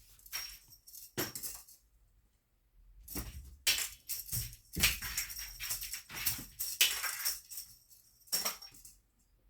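Cat fishing-rod wand toy jingling and rattling in irregular bursts as it is shaken.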